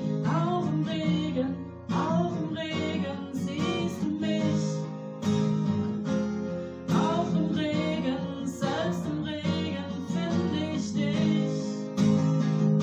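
Acoustic guitar strummed in chords, with a woman's voice carrying a wavering melody over it.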